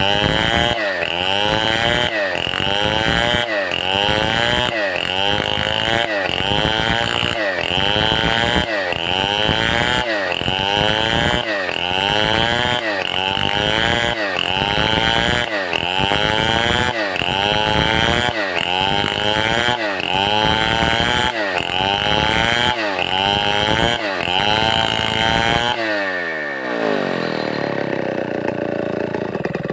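Stihl 070 two-stroke chainsaw running hard while sawing timber into a beam, its engine pitch dipping and recovering about once a second. Near the end the throttle is let off and the engine winds down, then it revs up again.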